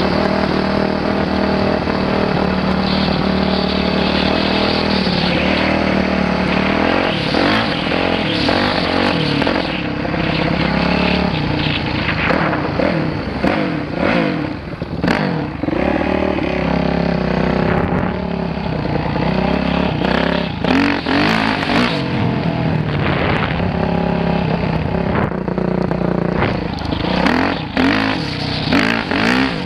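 Dirt bike engine running, steady for the first several seconds, then revving up and down repeatedly through the rest, with scattered sharp clatters and knocks.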